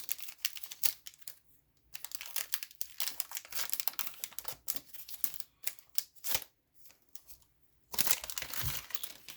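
Wrapper of a Topps baseball card pack being torn open and crinkled by hand, in crackly bursts with two short pauses.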